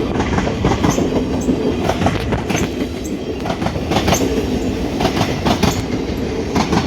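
Train running past a platform close by, a loud steady rumble with rapid clicks and clatter of its wheels over the rail joints.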